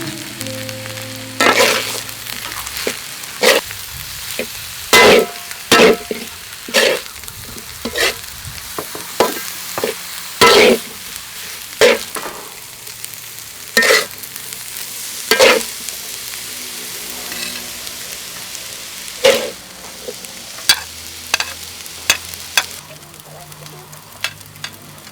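Fried rice and broccoli sizzling in a hot pan, stir-fried with a spatula that scrapes and knocks against the pan about every one to two seconds.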